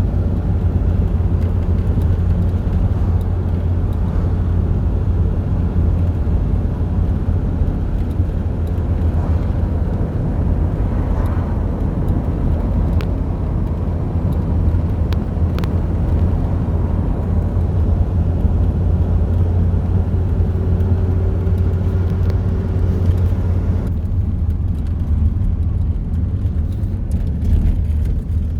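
Steady low rumble of a motor vehicle running, with the higher hiss dropping away about 24 seconds in.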